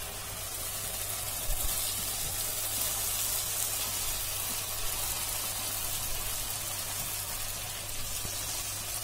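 Masala and oil sizzling in a kadhai as crushed potatoes are tipped into the pan: a steady hiss, a little louder a second or two in.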